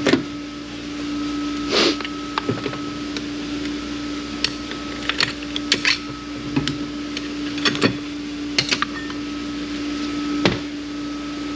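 Metal parts of a Ford AOD transmission's direct clutch assembly clinking and knocking as they are handled and taken apart, in scattered irregular clicks over a steady hum.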